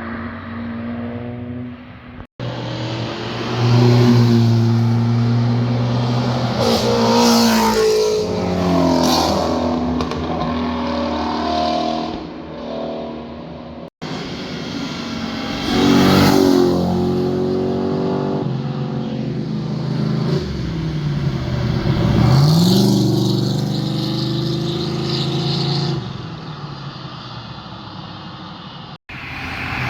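Several sports cars' exhaust notes, one after another, accelerating past on a winding mountain road, with the engine pitch rising and falling through revs and gear changes. The clips are joined by abrupt cuts about 2, 14 and 29 seconds in.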